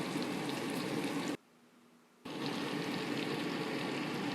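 Chicken and spices cooking in a pot: a steady sizzling hiss with small crackles. It cuts out abruptly to near silence for under a second about a second and a half in, then carries on.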